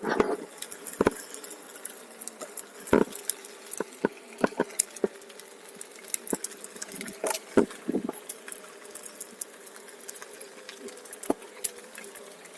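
Onewheel electric board rolling over uneven ground: irregular sharp clicks and knocks as the wheel hits bumps, over a faint steady hum from the hub motor.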